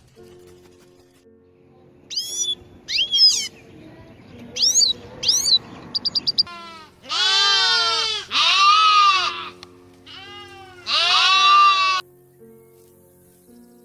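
Animal bleating: four long, wavering calls, each rising and falling in pitch, in the second half. Before them come several short, high chirps and a quick run of ticks, all over background music with steady held tones.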